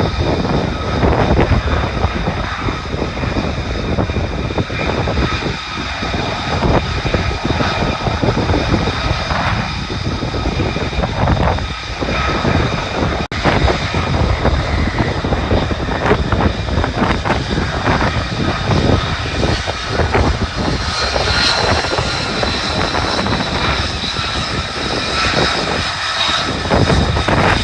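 Lockheed Martin F-35A's single Pratt & Whitney F135 jet engine in afterburner, a loud, ragged, continuous rush with a faint whine over it.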